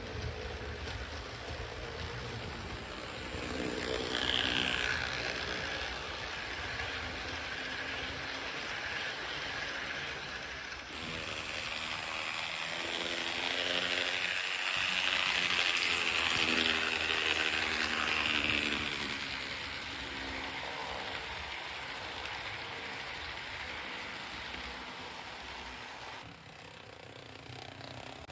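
HO-scale IHC 2-8-2 model steam locomotive running on its track: a steady whir of its small electric motor and gears with the rattle of the wheels on the rails. It grows louder about four seconds in, and again from about twelve to nineteen seconds in.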